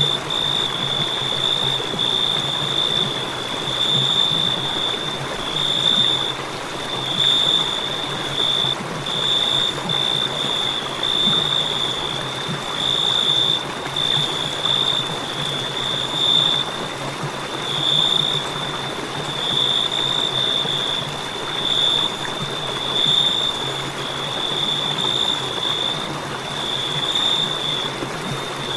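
Crickets chirping in a continuous high-pitched trill that swells and fades every second or two, over a steady background hiss.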